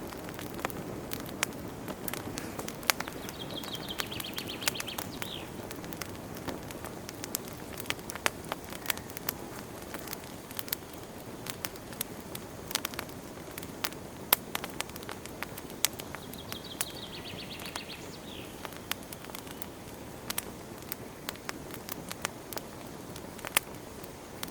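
Wood fire crackling in a fireplace: frequent sharp pops and snaps over a steady low rush of burning. A short, high, rapid trill comes twice, about four seconds in and again about seventeen seconds in.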